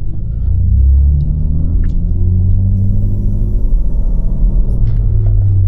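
BMW M3's twin-turbo inline-six running at low speed, a steady low drone and rumble whose pitch rises a little about two seconds in.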